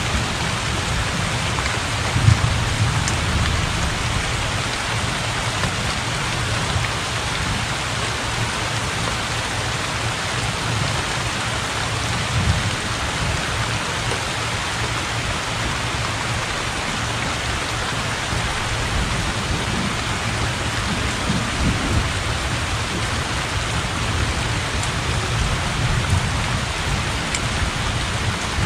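Heavy rain pouring steadily onto open water, with a low rumble of thunder underneath that swells briefly about two seconds in.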